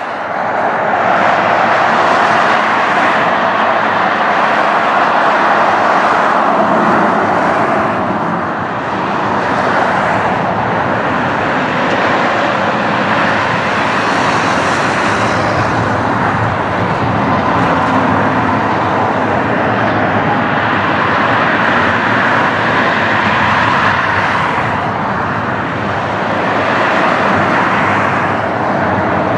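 Jet airliner engines running, a loud steady rush that swells and eases slightly.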